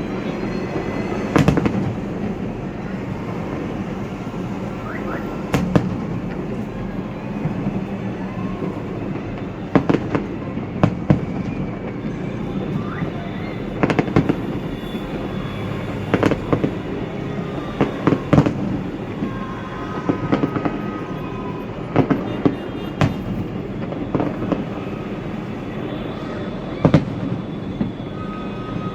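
Fireworks display: sharp bangs of exploding shells every one to three seconds over a steady background rumble, with a few faint whistles.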